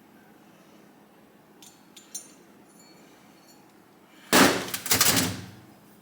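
Small metal engine parts clinking: a few light ticks about two seconds in, then a loud metallic clatter of two quick crashes about four seconds in.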